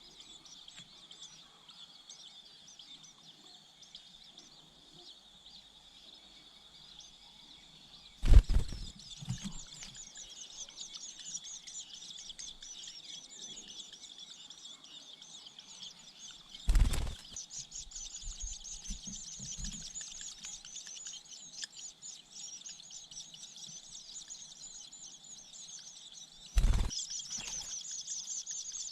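Long-tailed shrike (cendet) nestlings chirping in a dense, high chatter. Three loud thumps come about 8, 17 and 27 seconds in, and after each one the chirping grows louder.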